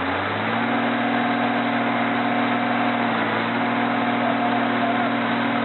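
Truck engine running steadily, its pitch stepping up slightly just after the start and then holding even.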